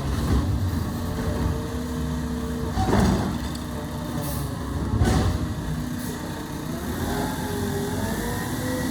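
Garbage truck engine running steadily, with two short loud bursts of noise about three and five seconds in. Near the end the engine pitch rises gradually.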